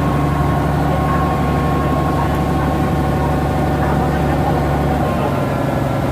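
A river tour boat's engine running steadily, heard from aboard: a constant low hum with a fainter steady higher tone, the low note shifting about five seconds in.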